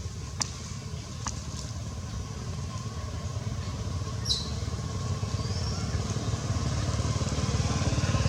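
An engine running with a fast low pulse, getting steadily louder as it nears, with two sharp clicks early on and a brief high squeak around the middle.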